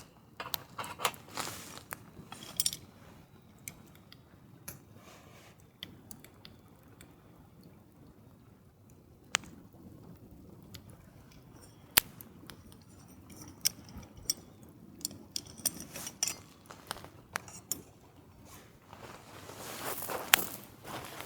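Intermittent small clicks, taps and crunchy handling noises, with two sharp single clicks in the quieter middle stretch, about nine and twelve seconds in.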